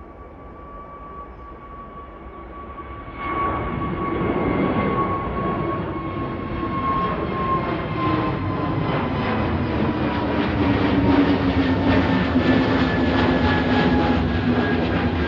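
Jet airliner taking off: a whine of steady high engine tones grows louder, then the full engine roar comes in suddenly about three seconds in and swells as the aircraft passes. Its tones slowly fall in pitch.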